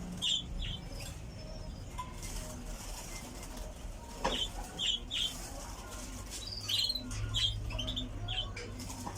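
A caged canary flapping its wings as it is caught by hand, while small cage birds give short chirps over a low steady hum.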